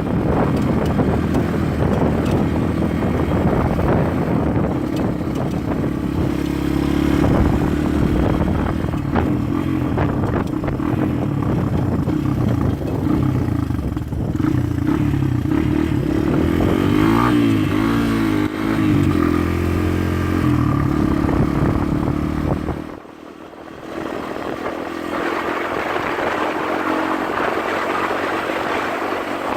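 Dirt bike engine running as the bike is ridden, its pitch rising and falling with the throttle about halfway through. The sound drops away sharply for about a second near 23 s in, then comes back.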